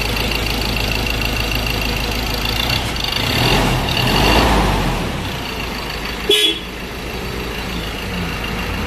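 Mazda BT-50's 2.2 diesel engine running steadily, swelling in level for a second or two about three and a half seconds in. A brief horn toot about six seconds in.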